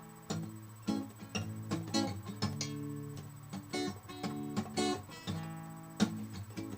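Acoustic guitar strumming the chords of a slow song's intro, with sharp strokes roughly every half second to a second and chords ringing between them.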